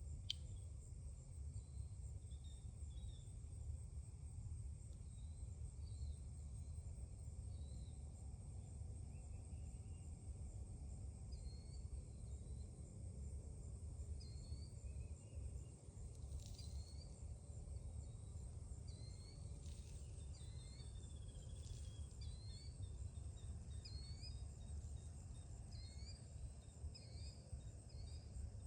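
Songbird chirping: short, high notes repeated, sparse at first and coming about once a second in the second half, over a steady high insect drone and a low steady rumble.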